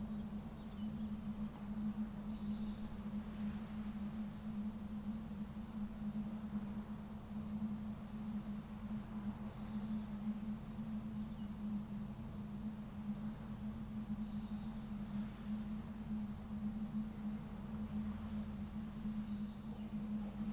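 Outdoor coastal ambience: a steady low hum runs under short, high bird chirps repeating every second or two.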